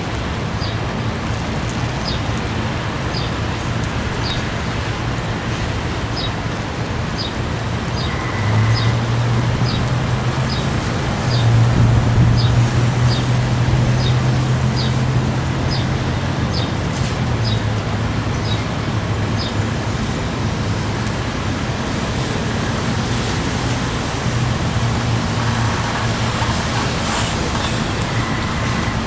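Steady road traffic with a low engine hum that swells louder for several seconds in the middle. A short high chirp repeats about twice a second through most of the first two thirds.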